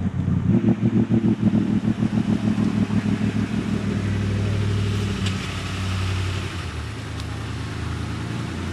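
Fuel-injected off-road truck engine running at a raised idle, turned up to keep it from stalling. It is uneven and pulsing for the first few seconds, then settles to a steady run.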